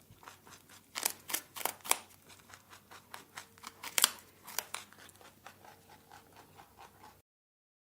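A rabbit chewing: a run of crisp, irregular crunching clicks that cuts off suddenly near the end.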